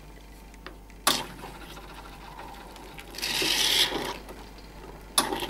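A knock about a second in, as the blind handle is taken off the espresso machine's group head. Then come two bursts of hissing, splashing water as the handle is rinsed, the second starting near the end.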